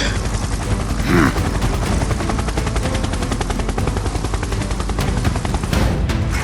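A rapid, steady mechanical rattle, like machine-gun fire, with a short gliding vocal sound about a second in.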